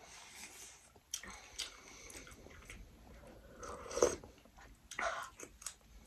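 Close mouth sounds of people eating a meal: chewing and biting with small wet clicks, and a couple of louder short mouth sounds about four and five seconds in.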